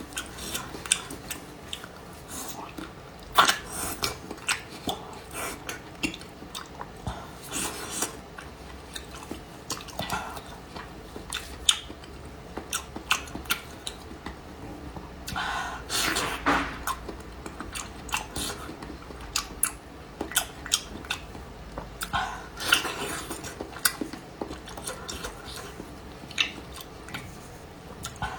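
Close-miked chewing and mouth clicks of someone eating soft-braised, fatty cured pork: irregular sharp smacks with a few longer, noisier stretches of chewing.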